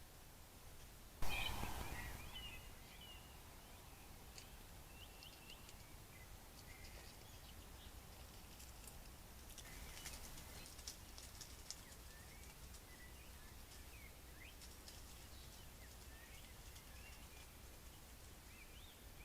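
Trail camera field audio: faint scattered bird chirps and small clicks over a low steady hum, with a sudden loud noise about a second in that fades over about a second.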